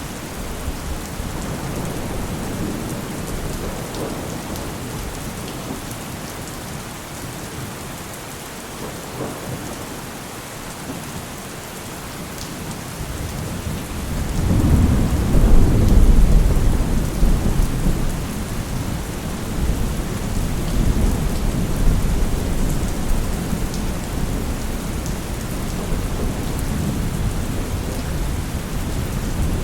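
Steady heavy rain, with a long low roll of thunder that builds about halfway through and slowly rumbles away.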